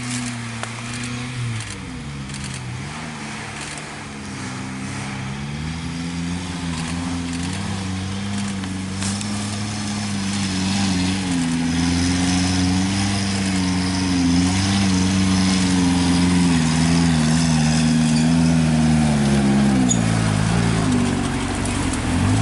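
Vehicle engine running on the move, its pitch wavering and climbing as it gets gradually louder, then dipping sharply and climbing again near the end, like a gear change.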